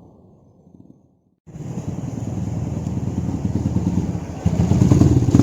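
Kawasaki KLX trail bike's single-cylinder engine running through an aftermarket aluminium racing muffler. It starts faint and fades, cuts out for a moment just over a second in, then comes back loud and steady, and jumps louder again near the end.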